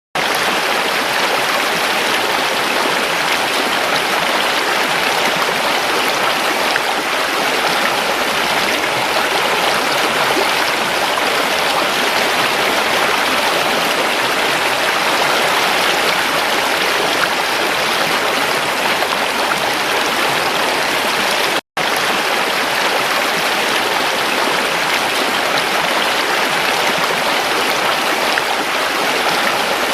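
Creek water flowing steadily, a dense even rush and burble, broken once by a split-second gap about two-thirds of the way through.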